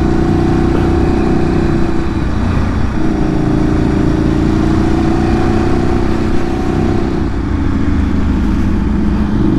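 Ducati Streetfighter 848's L-twin engine with a Termignoni exhaust, running steadily under way. The engine note eases off briefly about two seconds in, then holds steady again.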